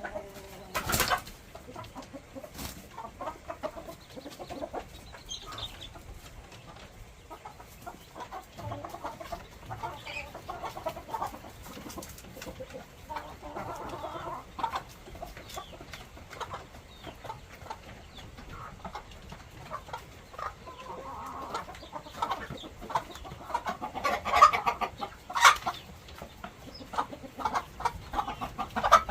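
Chickens clucking in a coop, a steady run of short low calls, with a few sharp knocks, the loudest about a second in and twice near the end.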